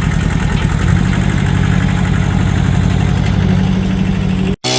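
Farm tractor engine running steadily, growing louder about a second in as it works towing the truck. It cuts off abruptly near the end.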